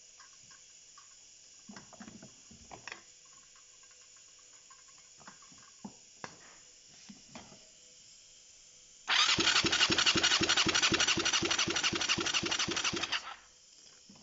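Honda VTR250 MC15E V-twin engine being spun over by its starter motor for about four seconds, with an even pulsing beat that cuts off abruptly, preceded by a few faint clicks and knocks of handling.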